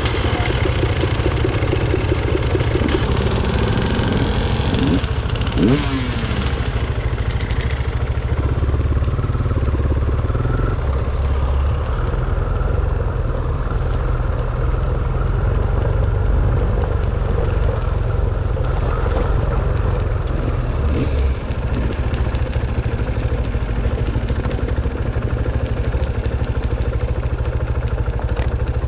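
Dirt bike engine running under way on an off-road trail, its pitch rising and falling with the throttle.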